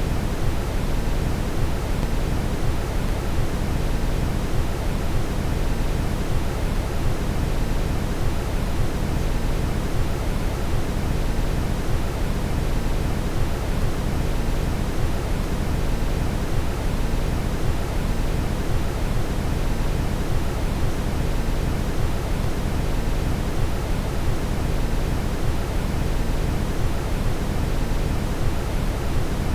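Steady brown noise: an even, deep rushing hiss, strongest in the low end and unchanging throughout.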